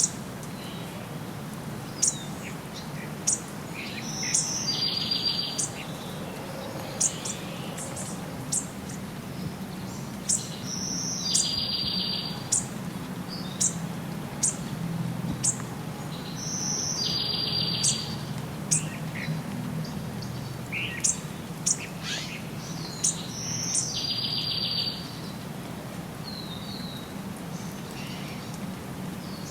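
Several wild birds singing: one repeats a short song phrase ending in a fast buzzy trill about every six seconds, while others give quick sharp chirps in between. A steady low rumble runs beneath.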